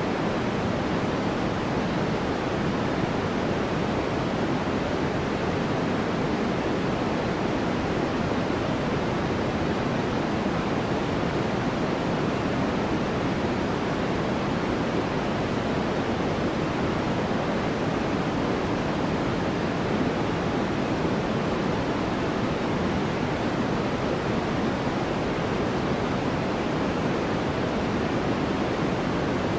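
Steady sleep-aid noise: a continuous, even hiss that does not change, weighted toward the lower-middle range, so it sounds deeper than pure white noise, closer to pink noise.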